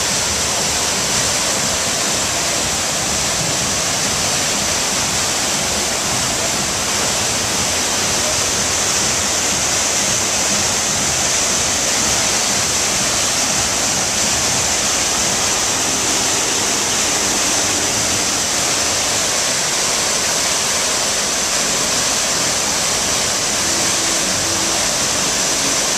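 Waterfall: a steady, hissing rush of falling water that does not let up.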